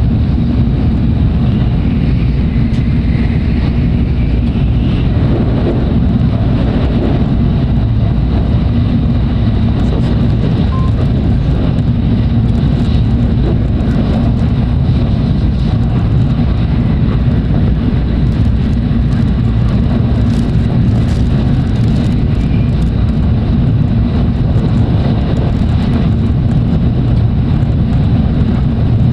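Steady running noise inside the cabin of a Tokaido Shinkansen train: an even, deep rumble of wheels and air, with a few faint clicks or rattles in the second half.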